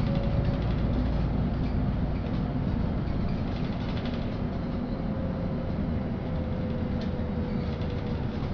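LiAZ-5292 city bus on the move, heard from inside the cabin: a steady low engine and road rumble with a faint whine that slowly falls in pitch, and light rattles.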